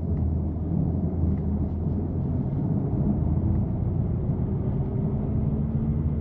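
BMW F80 M3's twin-turbo straight-six running at a steady, gentle cruise: a low, even exhaust drone through catless downpipes and an always-open valved exhaust.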